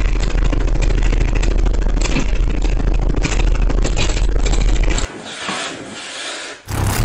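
A car audio system's subwoofers playing a steady, very deep bass note at high volume, with a dense rattle over it from the car's body and panels. The bass cuts off suddenly about five seconds in, leaving quieter noise.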